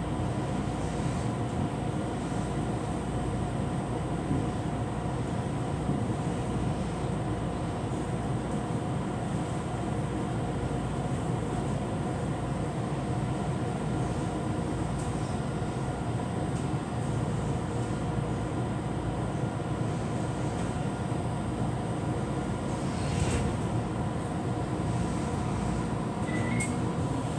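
Train running along the line, heard from on board: a steady rumble of wheels on rail with a faint steady whine. A couple of short clicks come near the end.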